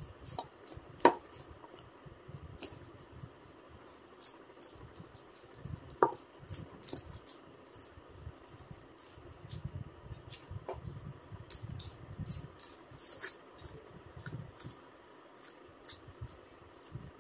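A person eating close to the microphone: wet chewing and mouth clicks, many short smacks in an uneven run, with two louder sharp clicks about a second in and about six seconds in.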